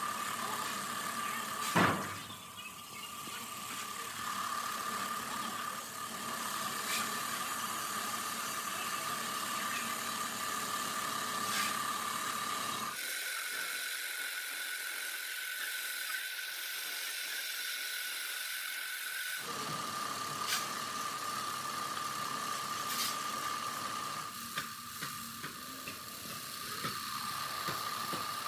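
Workshop machinery running with a steady high whine over a mechanical din, with one sharp knock about two seconds in and a few lighter clicks later. For several seconds in the middle the whine sits higher and the low rumble drops away, then it returns as before.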